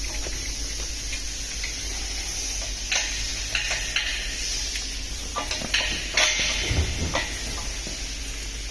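A string of light metal clanks and knocks, busiest in the middle, over a steady low hum: tools and engine parts being handled as the engine is stripped.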